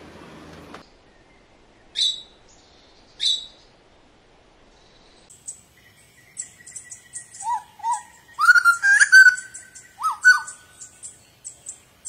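Songbirds calling: two short, high chirps, then from about halfway a string of varied whistled, slurred notes mixed with fast, high ticking chatter, loudest near the end.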